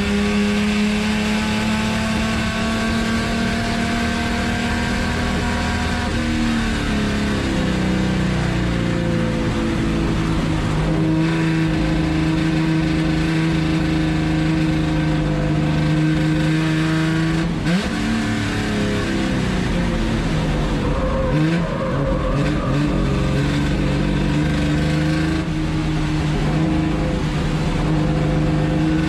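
Chevrolet Opala 250's straight-six engine running hard at race pace, heard from inside the cabin. Its pitch drops a few seconds in, changes sharply a little past halfway and climbs again, rising and falling with gear changes and braking through the corners.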